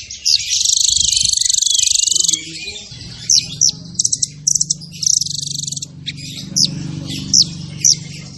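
Songbird singing fast: a long rapid trill for about two seconds, then a run of short, sharp, high chirps.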